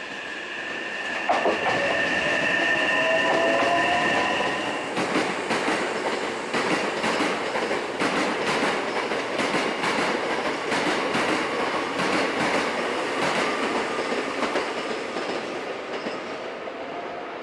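Hankyu electric train running along the platform: a high steady squeal for the first few seconds, then rapid clicking of wheels over rail joints, fading toward the end.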